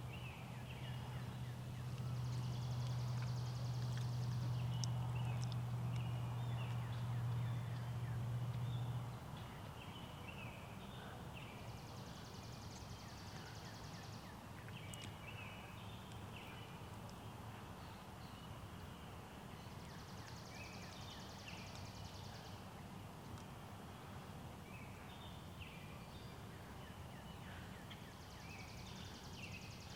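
Outdoor bird chorus: small songbirds chirping, with a high trill repeating about every eight seconds, over a steady low hum that stops about nine seconds in.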